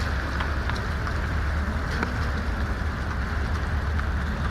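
A vehicle engine running steadily, a continuous low hum with a few faint clicks.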